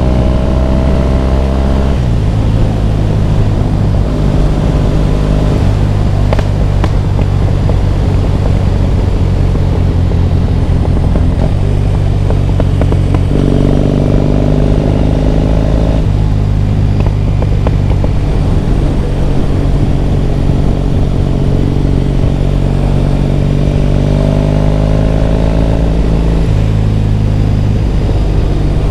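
Triumph Bonneville T100's parallel-twin engine on the move, its pitch climbing as it pulls and dropping at each gear change, several times over.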